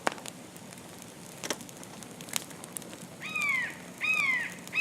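Campfire crackling with a few sharp pops. About three seconds in, a hawk starts calling: a quick series of short, descending screams, louder than the fire.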